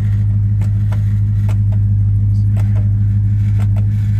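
The 1969 Plymouth Road Runner's 440 big-block V8 idling steadily with an even, pulsing low note, heard from inside the cabin, with a few faint clicks.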